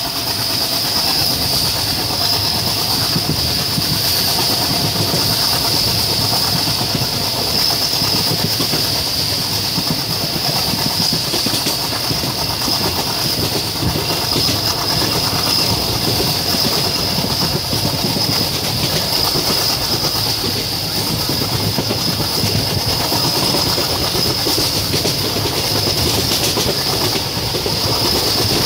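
Passenger train running at speed, heard from the open coach doorway: a steady rumble of wheels on the rails with clickety-clack, under a constant high hiss of rushing air.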